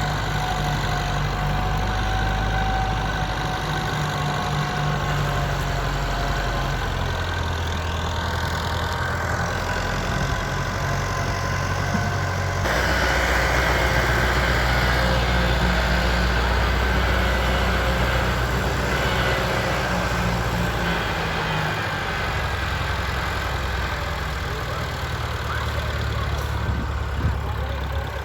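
Farm tractor engine running steadily, its note shifting a few times and getting abruptly louder about halfway through.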